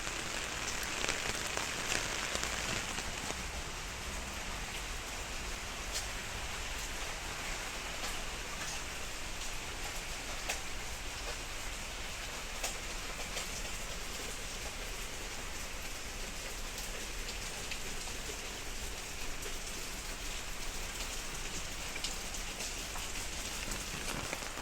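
Steady rain: an even hiss dotted with many distinct drops ticking on nearby surfaces, a little louder in the first few seconds.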